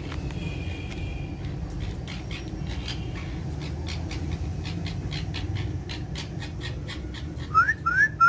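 Steady low background rumble with scattered soft clicks and taps, then three quick, loud rising whistle notes in fast succession near the end.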